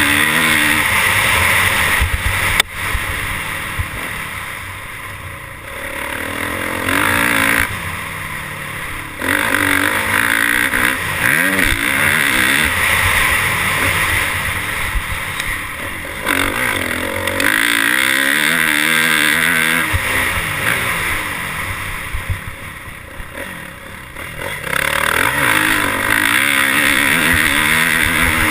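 Motocross bike engine revving up and down over and over as it rides, with wind rushing over the microphone; twice the throttle eases off and the engine drops away for a couple of seconds.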